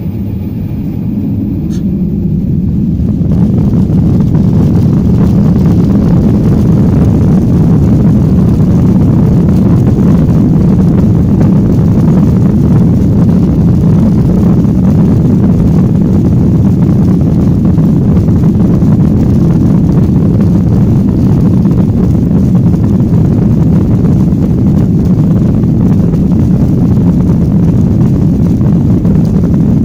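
Airliner jet engines spooling up to takeoff power, growing louder over the first three seconds, then running steadily and loudly with a low, noisy rumble.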